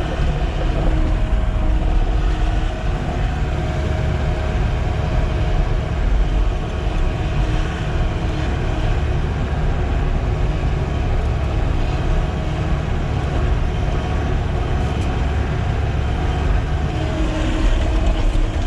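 Diesel engine of a Sany SY-95 excavator running steadily while the machine works.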